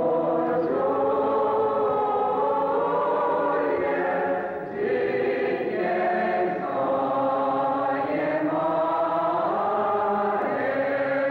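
A choir singing a slow hymn in long, held chords, with short breaks between phrases.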